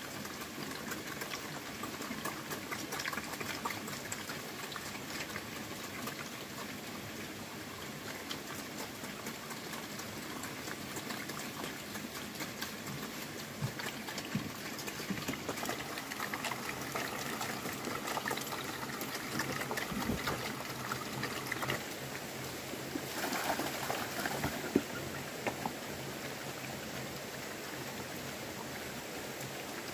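Steady patter of rain, with many small drop ticks, briefly louder about three quarters of the way through.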